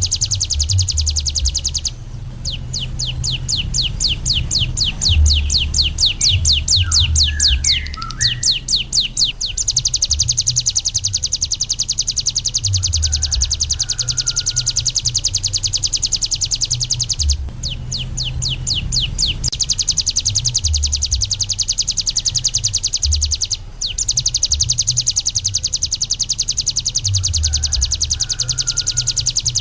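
Ciblek gunung songbird singing a long, very fast, high trill of rapidly repeated notes. The song pauses briefly three times and opens into distinctly separate strokes for a few seconds twice.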